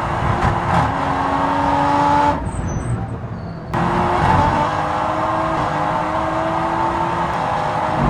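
Toyota GR Supra GT4's BMW B58-derived 3.0-litre turbocharged inline-six heard onboard, pulling with slowly rising pitch under acceleration. A little over two seconds in the engine drops away for about a second and a half, then comes back on and pulls again with rising pitch.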